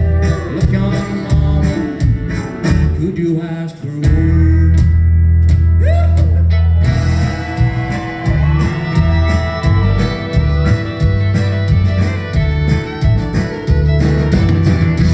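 Acoustic string band playing an instrumental passage in a country/blues style: strummed guitar over heavy plucked bass notes, with a sliding fiddle melody carrying the tune.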